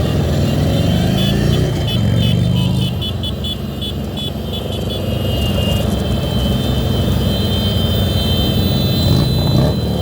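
Motorcycle engine running under way, rising in pitch as it accelerates in the first couple of seconds, then holding a steady drone amid surrounding traffic.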